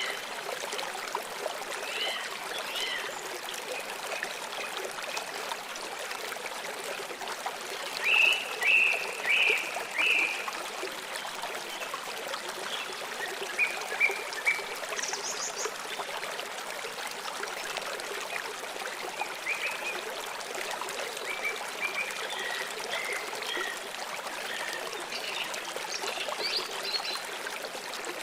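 Water flowing steadily as a small stream or trickle, with birds chirping in short bursts now and then; the loudest run of chirps comes about eight to ten seconds in.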